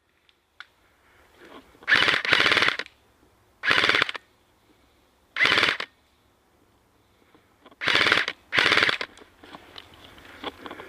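Airsoft gun firing six short full-auto bursts, each about half a second of rapid shots, the first two nearly back to back and the rest a second or two apart.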